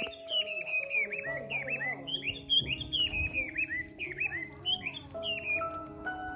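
Many high-pitched peeping cries from young animals, short falling chirps several a second and overlapping, over soft background music.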